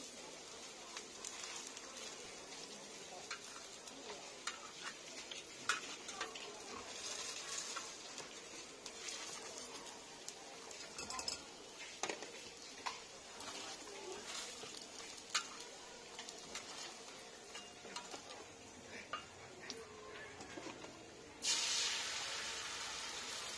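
Patties frying in hot oil on a flat iron griddle, sizzling steadily, with scattered clicks and scrapes of a metal press and spatula against the pan. About two seconds from the end, beaten egg poured onto the hot griddle sets off a sudden, louder sizzle.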